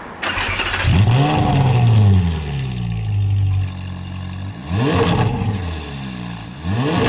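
Ferrari 458's 4.5-litre V8 through an Akrapovic titanium exhaust and catalytic converter, starting up with a rev flare that rises and falls, then settling to idle. Two quick throttle blips follow, about two seconds apart.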